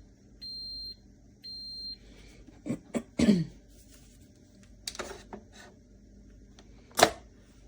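Ninja DualBrew Pro coffee maker's control panel beeping twice, short single-pitch high beeps about half a second each, as its buttons are pressed. A few clicks and knocks of handling follow, the sharpest one near the end.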